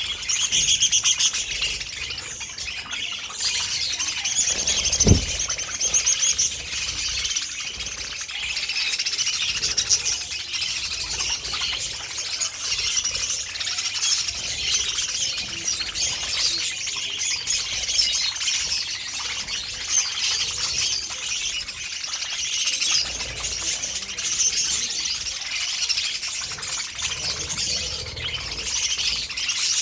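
Budgerigars chattering and chirping continuously. There is one low thump about five seconds in.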